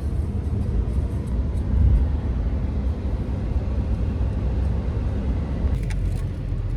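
A car driving, with a steady low rumble of road and engine noise and a few light knocks near the end.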